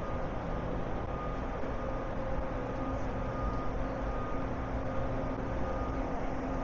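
Steady road-traffic rumble of a city street, with a faint held engine hum.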